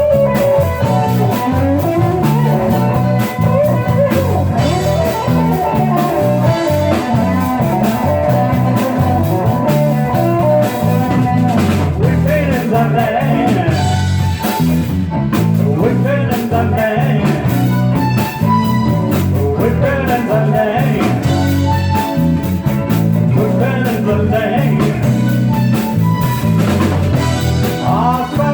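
Live band playing a blues song: guitar over bass and drums, with some singing.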